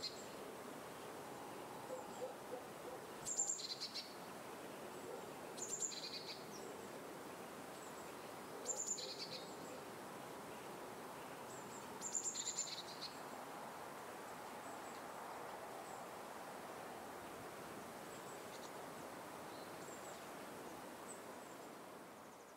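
Bird calling over a steady outdoor background hiss. It repeats a short two-note call, a very high note dropping to a lower one, every few seconds, most clearly in the first half. The ambience fades out at the very end.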